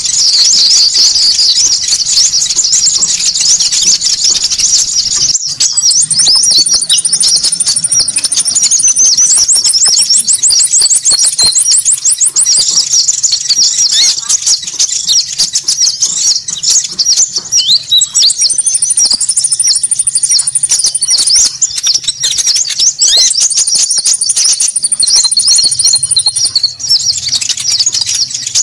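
A dense, busy chorus of high-pitched chirps, twitters and trills from small birds, used as a konin bird-trapping lure call. Fast, higher trills break in several times over the steady chattering.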